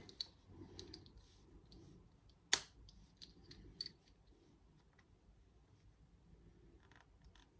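Plastic Lego pieces clicking and knocking as they are handled and pressed together, with one sharper click about two and a half seconds in.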